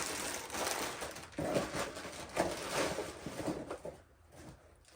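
Rustling and light clicking as small parts are handled: grease fittings and new steering-linkage pieces being picked up and set down. It goes quieter near the end.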